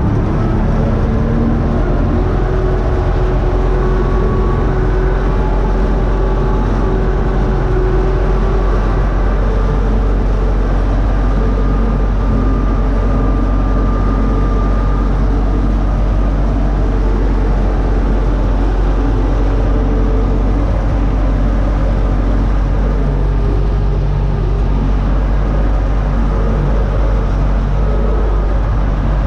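Universal U650 tractor's four-cylinder diesel engine running steadily while pulling a disc harrow.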